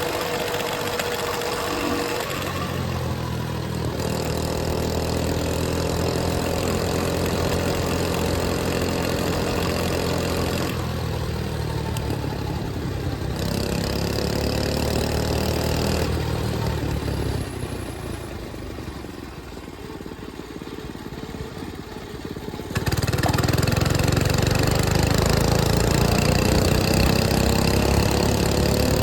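A 105cc mini bike's small single-cylinder engine running as the bike is ridden, its pitch climbing each time it speeds up. It drops to a quieter run a little past the middle, then comes back loud suddenly about three-quarters through and rises again.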